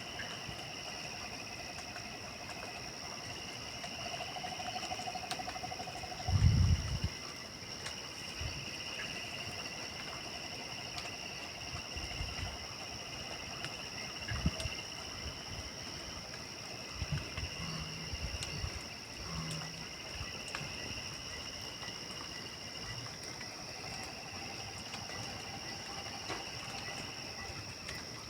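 Night chorus of insects and frogs: a steady high insect trill over a pulsing lower chorus that swells and fades. A low thump about six seconds in is the loudest sound, with a few softer low knocks later.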